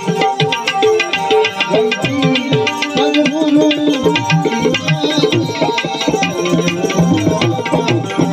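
Instrumental passage of a devotional song: tabla playing a steady, busy rhythm under held melodic notes.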